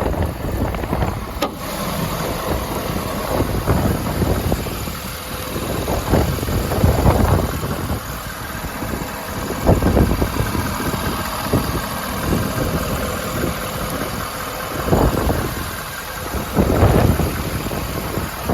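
Low, steady engine rumble, plausibly the truck's 6.7L Powerstroke diesel idling, under irregular gusts of wind buffeting the microphone.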